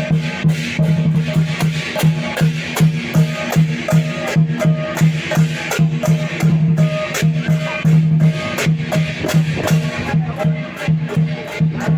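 Barongsai lion dance percussion: drum, cymbals and gong struck in a fast, steady beat.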